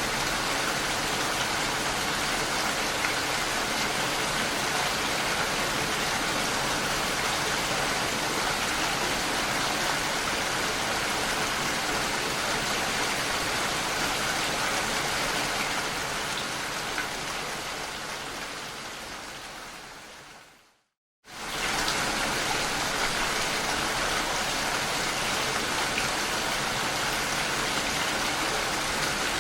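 Steady rain falling, an even hiss. About two-thirds of the way through it fades out over several seconds to a moment of silence, then comes straight back at full level: the join of a looped recording.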